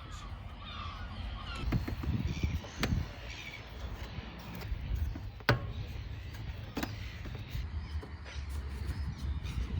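A few sharp knocks a second or two apart, from a wooden prop being fitted and knocked into place under the hull. A low wind rumble on the microphone runs underneath.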